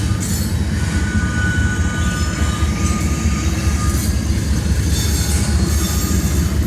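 Train rolling across a trestle bridge: a steady low rumble, with a faint thin wheel squeal in the first half.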